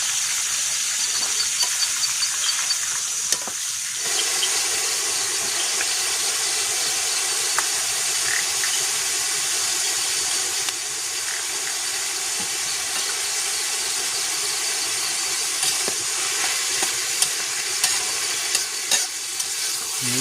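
Food sizzling and frying in a hot pan over a campfire, with occasional light clicks and scrapes of a utensil stirring it; the sizzle grows fuller about four seconds in.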